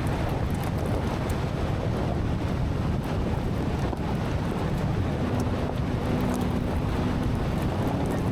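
Steady rushing wind buffeting the microphone, heaviest in the low end.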